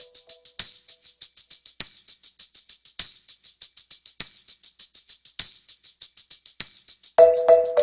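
Background music: a fast, steady rhythm of high, jingly percussion hits with a soft beat about every 1.2 seconds, and a tune coming in near the end.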